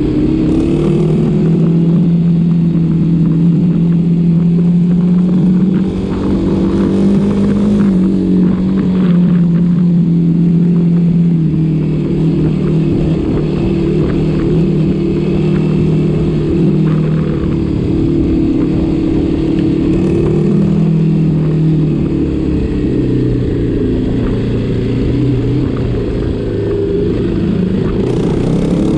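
Engine of a ridden vehicle running continuously under way. Its pitch rises and falls gently with the throttle, with slight dips about six seconds in and again near the end.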